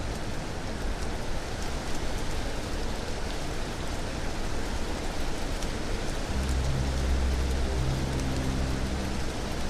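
Steady rain falling, an even hiss of drops. About six seconds in, low sustained bass notes of ambient music come in under it.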